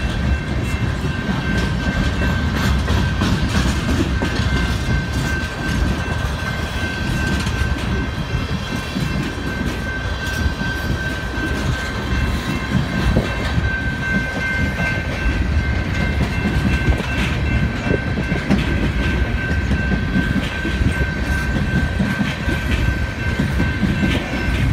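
Empty coal hopper cars rolling slowly past, wheels rumbling and clacking over the rail joints, with a steady high-pitched tone throughout.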